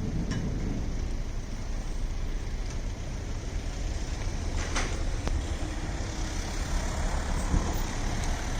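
A boat's engine running steadily as a low rumble, with a hiss of wind and water over it and a couple of faint clicks about five seconds in.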